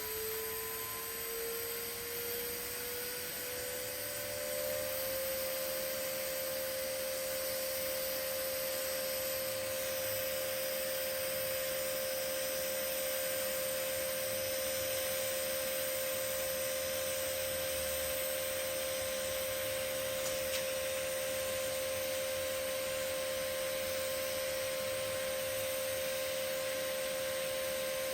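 TIG (GTAW) welding arc laying a fillet pass on carbon steel with ER70S6 filler: a steady high-pitched arc hum over a constant hiss, rising slightly in pitch over the first few seconds and then holding even.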